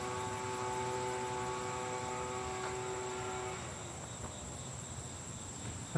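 A steady electrical-sounding hum that cuts off suddenly a little past halfway, over a constant high-pitched insect drone.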